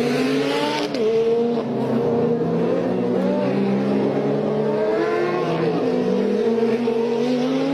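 Race car engines running at high revs, their pitch rising and falling as they shift and pass, with a short burst of hiss in the first second.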